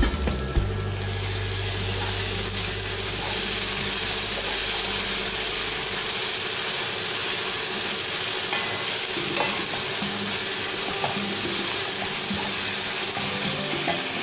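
Sliced onions and ginger-garlic paste sizzling in hot oil in a pot, with a spatula stirring and scraping through them. The sizzle is a steady hiss that grows fuller about a second in, and the stirring adds small scattered scrapes and taps.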